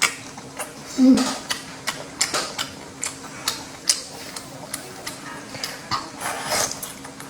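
Close-miked eating of dipped sea snail meat: a quick, irregular string of wet mouth clicks and smacks from chewing, with a stronger sound about a second in.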